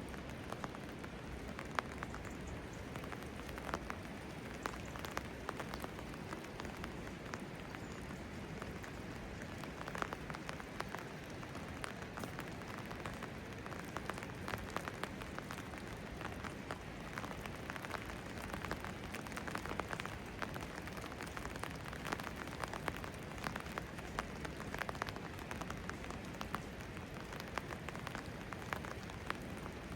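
Steady rain falling, with many sharp, separate drop hits close by.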